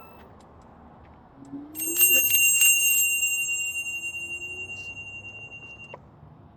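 A bicycle bell rung with several quick strikes about two seconds in, its ring fading slowly until it stops suddenly near the end.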